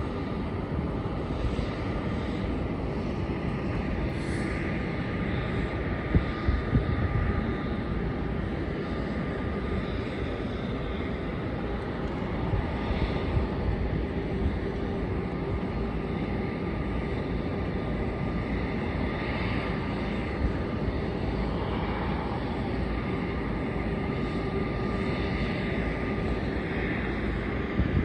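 Jet airliner engines at a distance: a steady rumble with a thin, steady whine.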